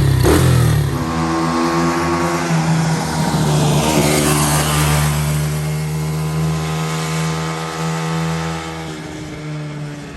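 125cc ATV engine running at a raised idle. It is uneven for the first second, then settles to a steady, even fast idle after the idle screw is turned up. A hiss swells and fades in the middle, and the engine eases down slightly near the end.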